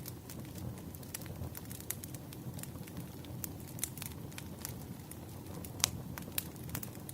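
Wood fire burning, with a steady low rumble and frequent sharp, irregular crackles and pops, the loudest pop a little before six seconds in.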